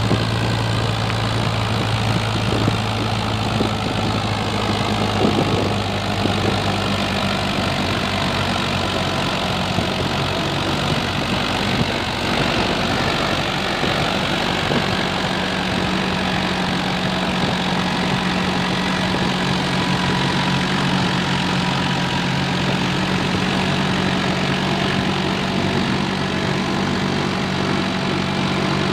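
Diesel tractor engine running steadily while pulling a loaded trolley; its note shifts a little higher about halfway through.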